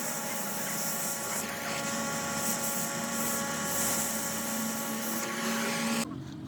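A workshop machine running steadily with a hum and a whine over a hiss, cutting off suddenly about six seconds in.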